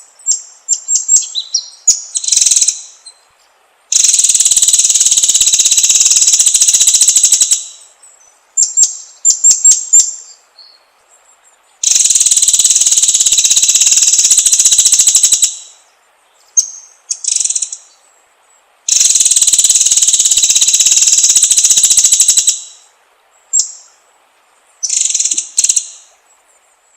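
White-rumped shama (murai batu) song: clusters of short high whistled notes and chips alternating with three long, rapid, buzzy trills of about three and a half seconds each, spaced about seven to eight seconds apart.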